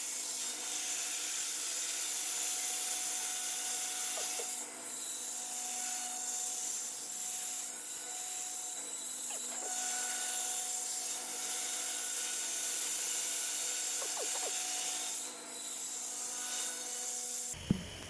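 5-axis CNC router cutting foam: a steady hissing cut with a high spindle whine, dipping briefly twice, which stops abruptly near the end.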